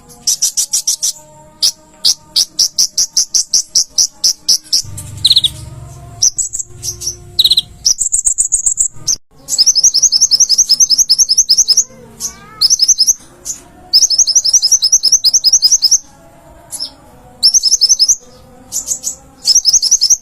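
Konin (kolibri ninja) sunbird singing vigorously: bursts of fast, high-pitched trills of rapidly repeated chirps with short pauses between them, plus a couple of brief sliding notes. A low rumble sounds briefly around five to seven seconds in.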